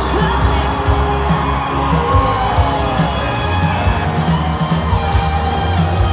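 Live country band playing a song through a stadium sound system, with heavy bass and a gliding melody line, and the crowd whooping and cheering along.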